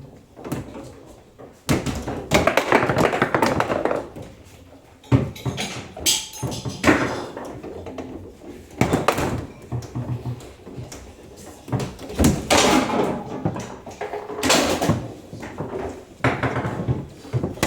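Table football being played: repeated sharp knocks and clacks of the ball against the player figures and the table, with longer bursts of rattling between the hits.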